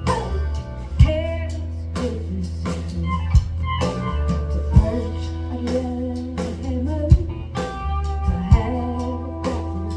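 A live band playing a song: a woman singing over guitar, bass and drums, with a heavy drum hit every one to two seconds.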